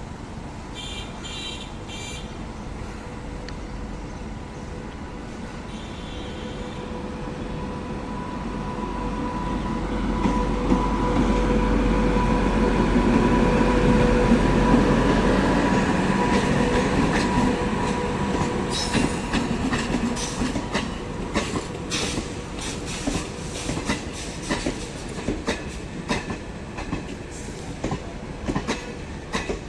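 MEMU electric multiple-unit train approaching and passing close by: its running noise builds to a peak with a steady whine, then the wheels click rapidly over the rail joints as the coaches go past.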